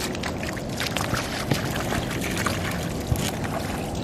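Shallow water splashing and trickling around a seine net being hauled in, with many small sharp splashes throughout.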